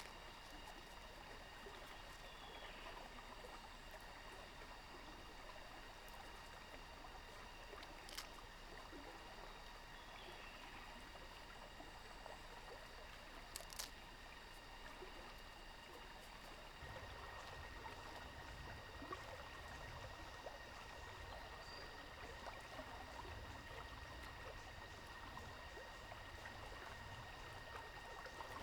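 Faint outdoor forest ambience: a steady rushing noise like running water, with several steady high insect-like tones. A few sharp clicks come through, and about two-thirds of the way in a low rumble and a further steady high tone join.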